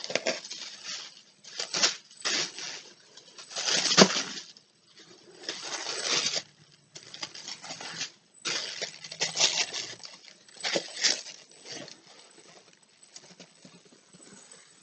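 Tissue paper rustling and crinkling in irregular bursts as it is unfolded and pulled aside, loudest about four seconds in.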